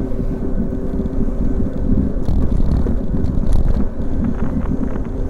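Wind buffeting an action camera's microphone on a fast bicycle descent, with low tyre and road rumble and a couple of light rattles from the bike.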